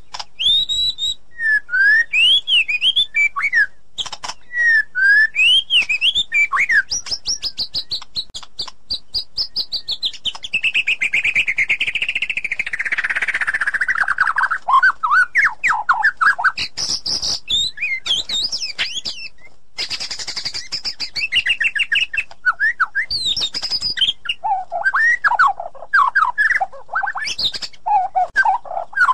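White-rumped shama (murai batu) singing loudly and continuously: clear whistled phrases that sweep up and down, a long fast trill that slides down in pitch around the middle, and quick rapid-fire chattering notes near the end.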